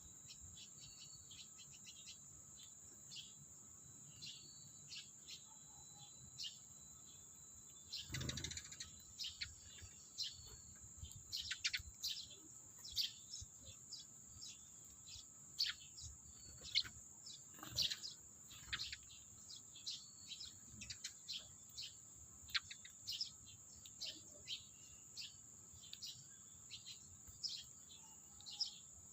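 Eurasian tree sparrows chirping, short chirps coming again and again, over a steady high-pitched hum. A brief rustle about eight seconds in and another near eighteen seconds.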